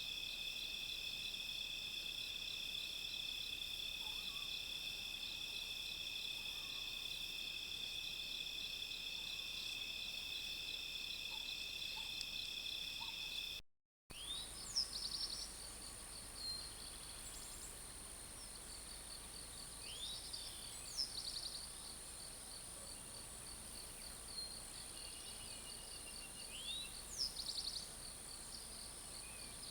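A chorus of insects trilling in steady high tones, cut off abruptly about halfway through. Then a different, higher insect drone with a pulsing trill, and a bird chirping a few times over it.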